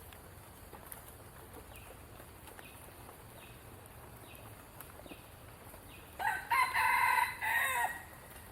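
A rooster crows once, a single call of just under two seconds about six seconds in. Before it, a faint high chirp repeats about once a second.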